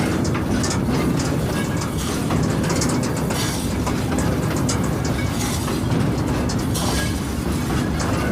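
Train running along the track: a steady rumble of the wagon's wheels on the rails, with scattered clicks.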